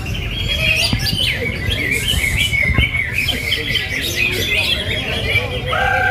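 A dense chorus of many greater green leafbirds (cucak hijau) singing at once: quick overlapping chirps and trills over a low rumble. A long, slightly falling whistle comes in near the end.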